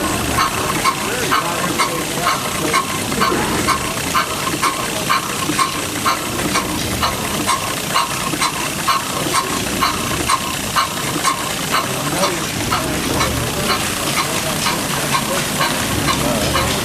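Small stationary gas engine running, with sharp, evenly spaced clicks about two to three times a second over a steady noisy background.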